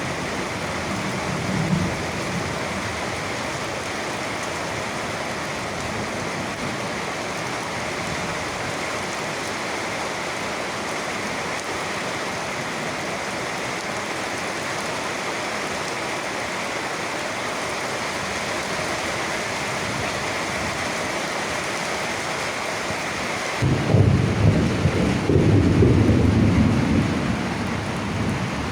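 Steady rain falling. Near the end, thunder breaks in with a sudden loud low rumble that swells and then fades.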